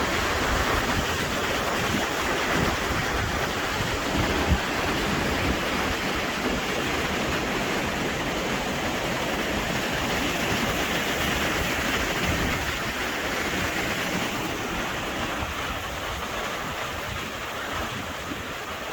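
Swollen river in flood, its water rushing steadily, with wind buffeting the microphone.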